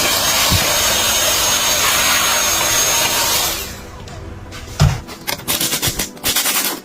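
A power tool runs with a loud hiss and a faint high whine for about three and a half seconds, then stops; a knock and a quick run of clicks follow.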